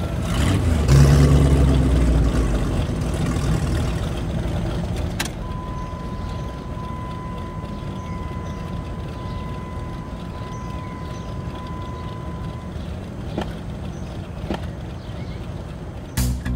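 Infiniti SUV engine running with a steady low rumble, heaviest in the first couple of seconds and then settling. A thin steady high tone sounds through the middle, and a few sharp clicks come along the way.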